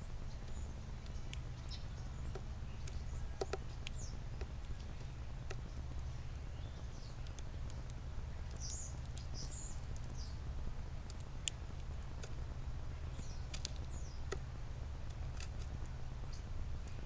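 Small backyard birds chirping in short, scattered high calls, with a cluster of quick chirps about halfway through, over a steady low rumble.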